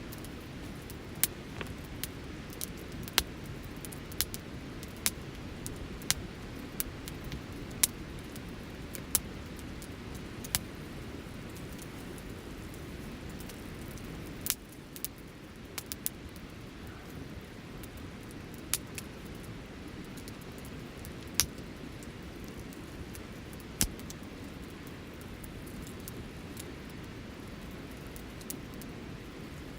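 Campfire burning: a steady low rush of flame with sharp crackles and pops from the wood, about one a second at first and more scattered later.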